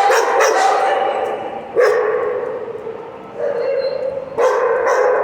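A big dog giving long, drawn-out barking cries, about three in a row, each starting sharply and fading away.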